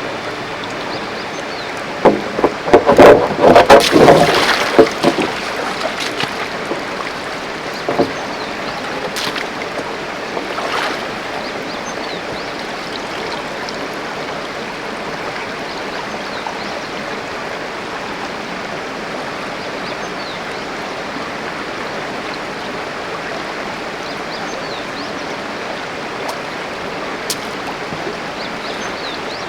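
A mountain stream rushing steadily over rocks. About two seconds in there are a few seconds of louder, sharper knocks or splashes close by.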